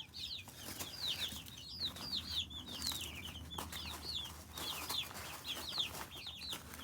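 Chickens feeding, calling in a steady run of short, high chirping notes, several a second, with a few faint taps among them.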